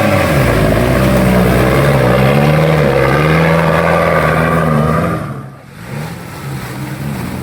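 Off-road 4x4 engine revving hard under load, its pitch rising and falling. About five seconds in it drops away sharply, then runs on more quietly.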